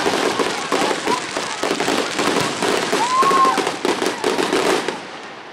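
Fireworks going off: a dense, continuous crackle of many rapid pops, dying away near the end.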